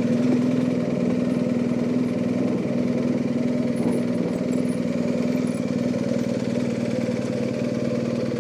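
BMW R1250GS boxer-twin motorcycle engine idling steadily at an even pitch.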